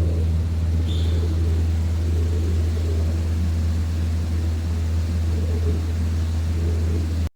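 A loud, steady low mechanical hum that cuts off abruptly near the end.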